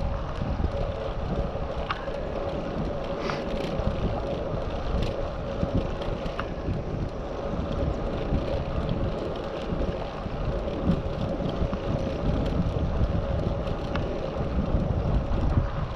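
Wind buffeting the microphone of an action camera on a moving bicycle, a steady rumble with a faint constant hum and a few light clicks and rattles scattered through.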